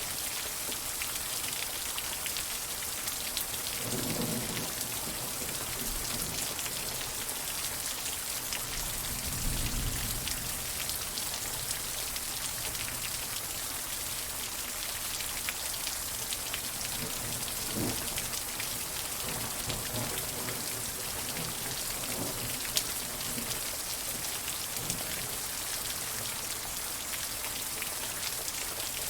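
Steady rain falling and pattering on surfaces, with low rumbles of distant thunder about 4 and 10 seconds in.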